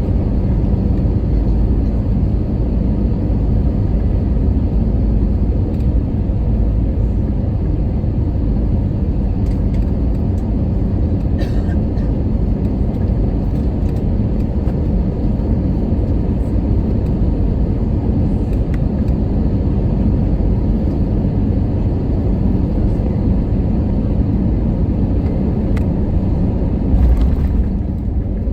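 Steady low rumble inside the cabin of an Airbus A320, engine and airflow noise heard from a passenger seat, swelling briefly louder near the end.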